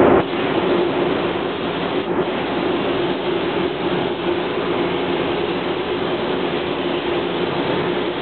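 Steady machinery drone with a constant hum and a rush of air; a louder rush of air noise cuts off just as it begins.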